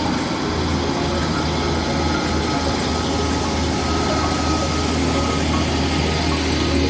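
Northern diesel multiple unit standing at the platform with its engine idling, a loud, steady low hum.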